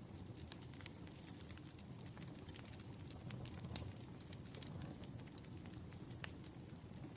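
Firewood burning with a steady low rumble and scattered sharp crackles, and one louder pop about six seconds in.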